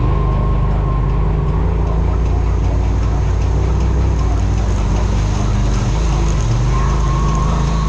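Side-by-side UTV engine running steadily, with a faint high whine over its low drone and a slight change in engine note about six seconds in.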